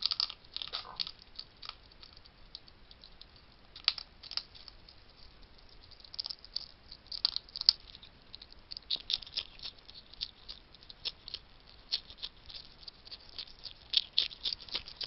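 Wild hedgehog crunching dry food at a feeding station: a long run of irregular sharp crunches and clicks, several a second.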